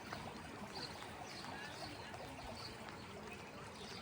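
Rainwater trickling and dripping in a steady wash, with small splashes recurring about every half second.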